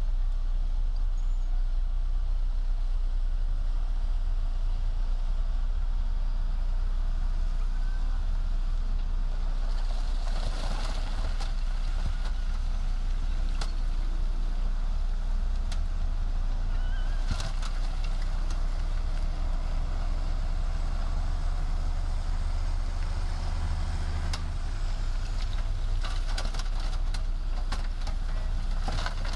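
Heavy diesel earthmoving machinery running steadily, with a low engine drone and scattered sharp knocks now and then.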